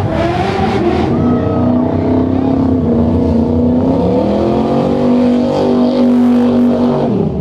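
Car engine revving hard and held at high revs during a burnout. The revs sag about four seconds in, climb back up, then drop off near the end.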